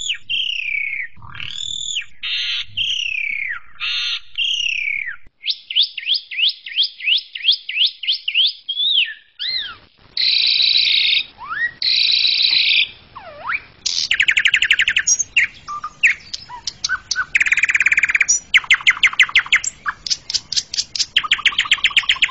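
Asian pied starling singing a long, varied song: slurred whistled notes, a quick run of about four sweeping notes a second, then buzzy and rapid rattling phrases.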